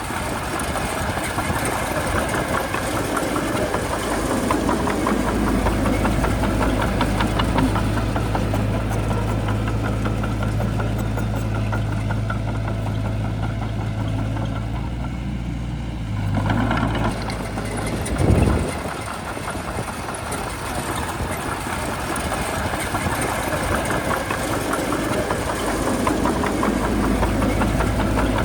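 Heavy diesel engine of a Shantui bulldozer running steadily, its note shifting a few times with load. One brief thud about two-thirds of the way in.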